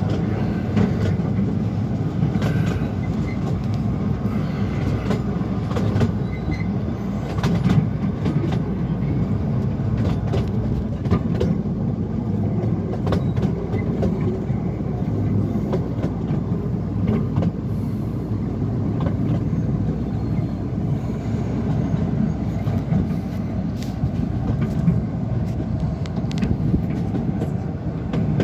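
Open-sided tourist train running along a mountain line, heard from inside its open carriage: a steady low rumble of wheels on the rails, with scattered clicks from the track.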